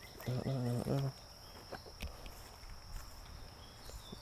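Insects making a steady high-pitched drone. About half a second in, a brief low hum in three short pieces is the loudest sound.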